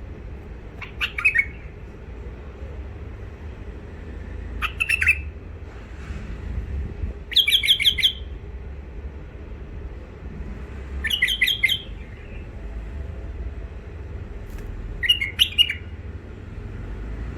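A bulbul giving five short, rough chattering calls, each a quick rattle of notes, a few seconds apart, over a steady low hum.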